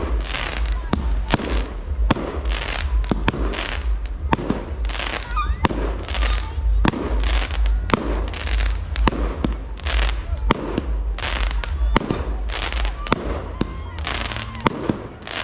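Fireworks display: a rapid, continuous run of bangs, about two or three a second, each trailed by the crackle of bursting stars, over a steady low rumble.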